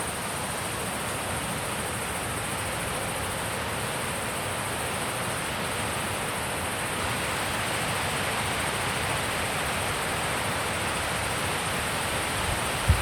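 Mountain wind blowing as a steady, even rush that swells a little about halfway through, with one brief low thump near the end.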